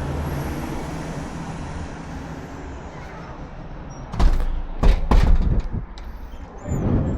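Motorcycle engine idling, then a cluster of loud knocks and thumps about four to five seconds in and another thump near the end.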